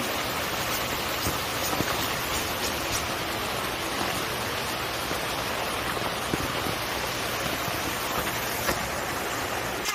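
Steady rain falling on a tent, heard from inside: a dense, even patter with the odd single drop standing out.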